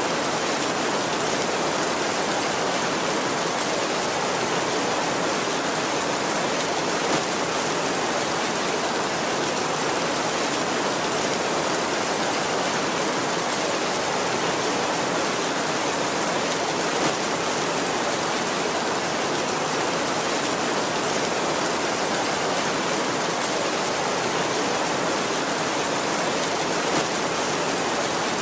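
Heavy rain falling steadily on a tin roof as an even, unbroken hiss of drops, with a few slightly louder single taps. No thunder is heard.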